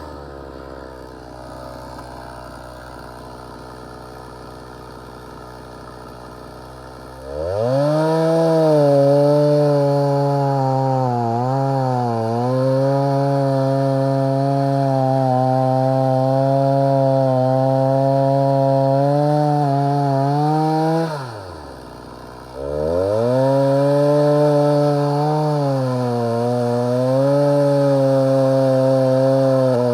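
Stihl MS 290 chainsaw with a 20-inch bar idling low, then opened to full throttle about seven seconds in and cutting through dry wood, its pitch dipping again and again under load. Near two-thirds through it drops briefly back to idle, then revs up and cuts again. The chain is dull and due for sharpening.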